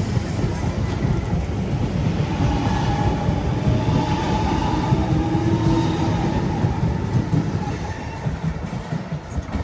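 Train running along the rails past the platform, a steady low rumble with some clickety-clack of the wheels, easing off somewhat near the end.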